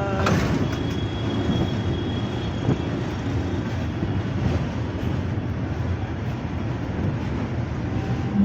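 Steady rumble and rattle of a moving vehicle.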